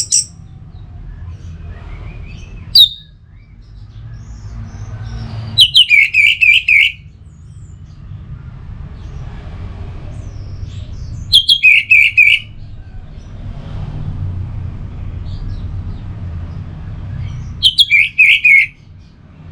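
Orange-headed thrush singing: three short loud phrases about six seconds apart, each opening with a high note and dropping into a quick run of lower warbled notes, with a brief high call about three seconds in. A steady low rumble runs underneath.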